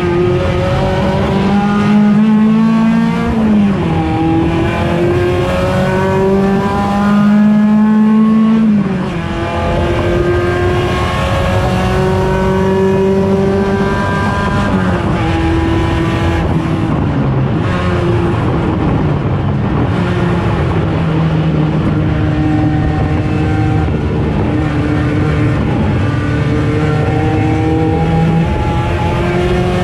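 Race-car engines of the 1.6-litre touring class running hard. The engine note climbs through the revs and drops sharply every few seconds at gear changes or lifts.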